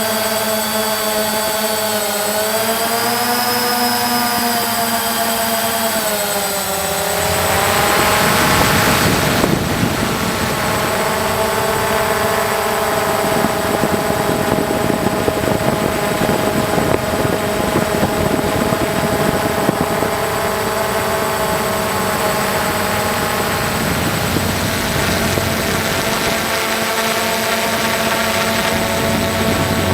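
A motor running with a steady pitched whine. Its pitch wavers and dips over the first several seconds, then a louder rushing noise swells for a couple of seconds before the whine settles steady.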